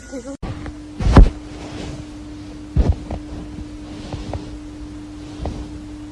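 A steady hum on one tone with a few dull thumps, the loudest about a second in and another near three seconds.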